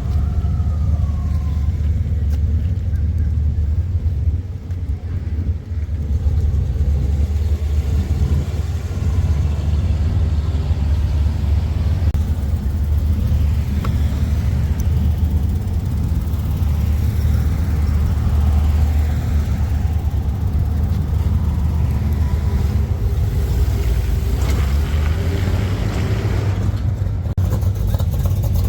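Car engine running with a deep, steady exhaust rumble.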